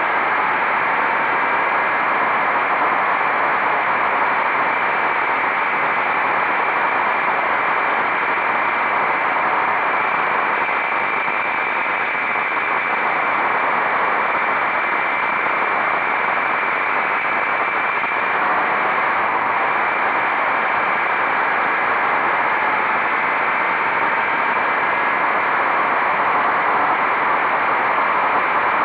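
Motorcycle riding at a steady speed: wind noise on the microphone, with a steady engine note underneath.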